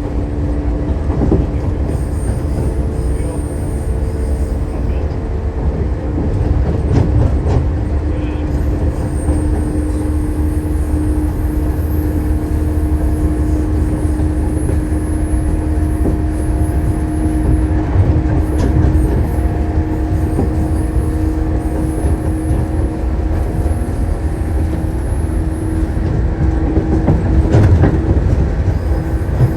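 Shinano Railway 115 series electric train running between stations, heard from inside the car: a steady rumble of wheels and bogies under a steady hum, with a few clacks over rail joints.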